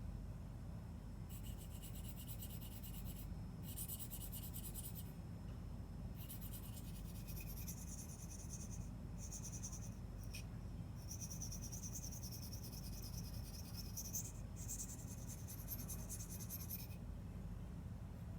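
Knife blade being drawn across a sharpening stone, a high scratchy scraping. It comes in runs of strokes one to three seconds long with short pauses between them, over a steady low hum.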